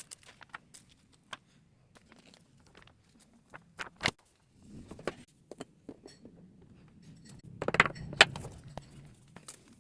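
Scattered light clicks and taps, with a louder cluster of knocks about eight seconds in.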